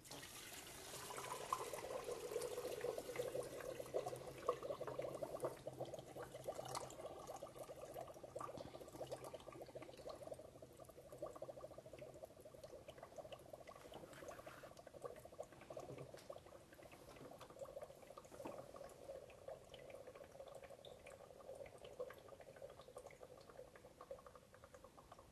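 Water pouring in a steady stream into a flow box onto sand, a faint continuous splashing trickle that eases a little after the first few seconds.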